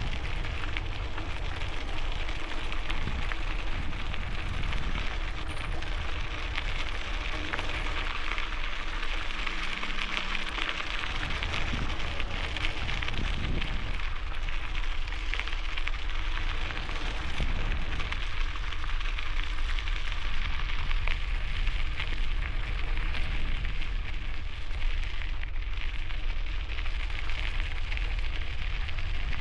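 Bicycle tires crunching steadily over gravel, a continuous crackling rush, with a low wind rumble on the helmet-mounted microphone underneath.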